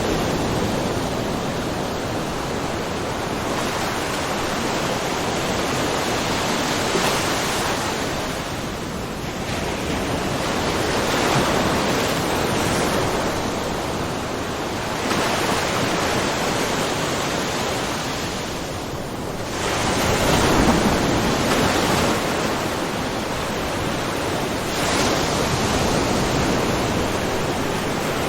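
Small ocean waves lightly splashing on a shoreline, a steady wash of surf that swells and ebbs every few seconds, with the strongest surge about twenty seconds in.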